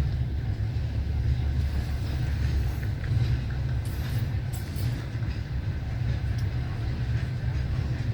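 Steady low rumble of a passenger train heard from inside the carriage, with no distinct rail-joint clicks standing out.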